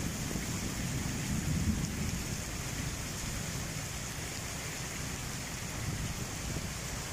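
Heavy rain pouring down on paved ground, a steady dense hiss, with a low rumble underneath that is strongest in the first couple of seconds and then eases.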